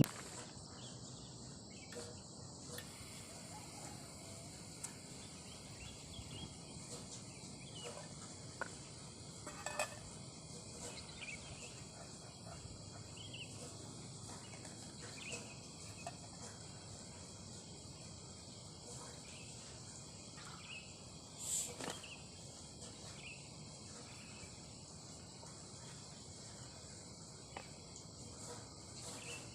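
Steady, high-pitched chorus of crickets and other insects, with scattered faint clicks and one louder brief knock or rustle about two-thirds of the way through.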